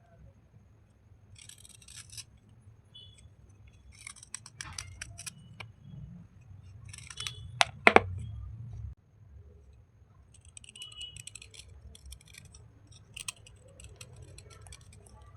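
Short bursts of crisp scratching and crunching on wet slate-pencil bars and chips, each lasting about a second, with one sharp loud click about eight seconds in.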